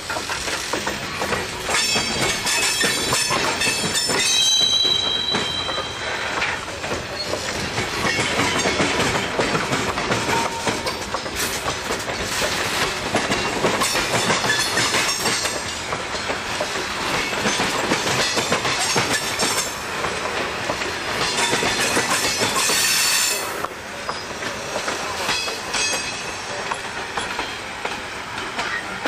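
Freight train of hopper cars rolling across a railroad diamond crossing: a dense, steady run of wheel clacks as the trucks cross the gaps, with brief high-pitched wheel squeals now and then, one held steady for about two seconds near the start. The level steps down near the end as the last car goes by.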